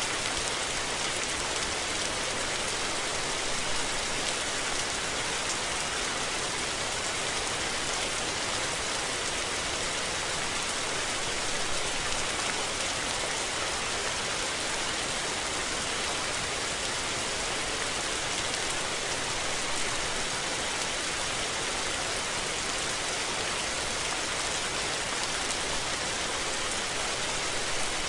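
Steady rain falling on surfaces, a dense, even hiss of drops.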